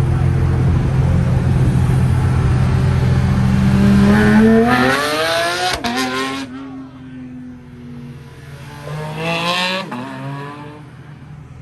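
A high-performance car's engine runs with a deep rumble, then revs hard as the car accelerates away. The pitch climbs steeply and breaks off abruptly about six seconds in at a gear change. The car pulls up again in the next gear a few seconds later and fades into the distance.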